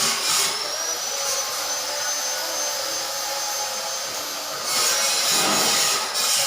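Handheld electric power tool at work on a workshop job. A steady hiss carries a high whine that rises and then levels off, and a louder burst of grinding noise comes in near the end.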